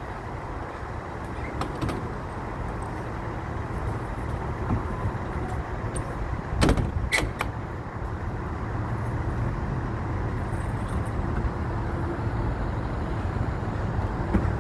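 Steady low rumble of a road vehicle's engine running, with two sharp knocks about seven seconds in.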